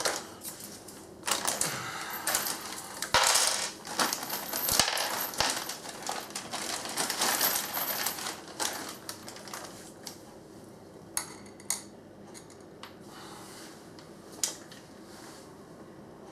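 Small metal screws and washers clinking and rattling against each other as they are handled, with sharp clicks and knocks. The clatter is busy for the first half, then thins to a few scattered clicks.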